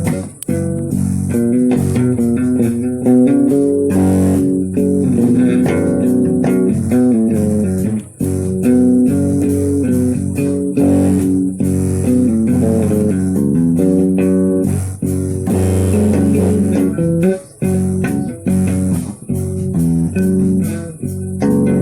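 Music of plucked guitar with bass notes, the notes changing in steps, with two short breaks.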